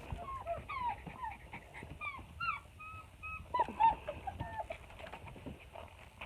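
Four-week-old German Shepherd puppies whimpering and squeaking: many short, high, rising-and-falling cries one after another, thinning out in the last couple of seconds.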